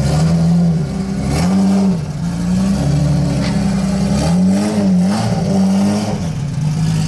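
Car engine running, its revs going up and down several times, so the pitch rises and falls.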